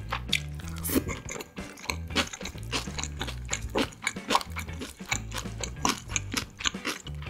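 Close-up crisp crunching and chewing of freshly made napa cabbage kimchi, with many sharp crunches a second.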